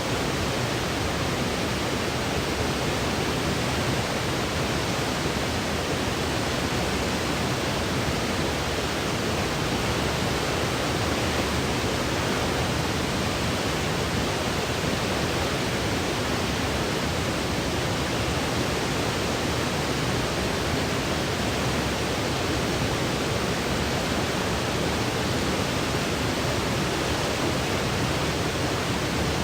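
Steady electronically generated sleep noise: a constant, even hiss that never changes, fuller in the low and middle range than in the highs.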